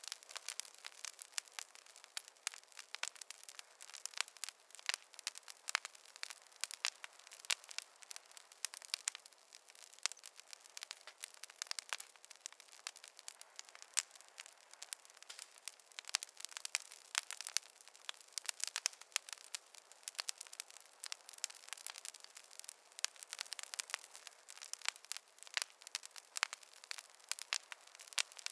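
Wood fire crackling in a fireplace: a dense, irregular run of small sharp pops and snaps over a faint hiss, with no low rumble.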